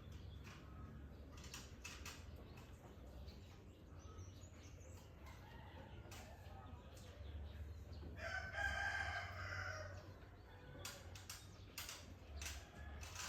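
A rooster crows once, about eight seconds in, as the loudest sound. Faint short bird chirps and clicks come and go over a low steady hum.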